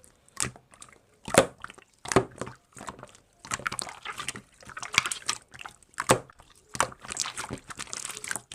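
Slime being squeezed and poked by hand: a run of irregular clicks and pops.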